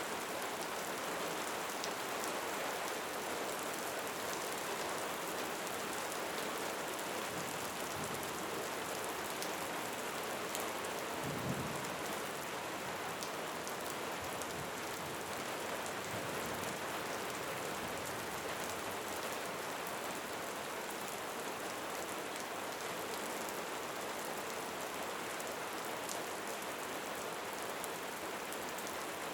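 Steady rain falling, an even hiss of drops with faint scattered ticks of single drops. A brief low thump comes about a third of the way through.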